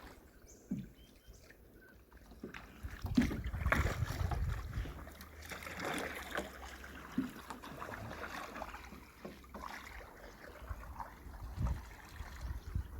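Canoe paddles dipping and splashing in the water in uneven strokes, with wind rumbling on the microphone.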